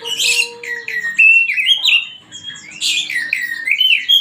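Oriental magpie-robin (kacer) singing a loud, rapid song of sweeping, falling whistled notes in repeated bursts.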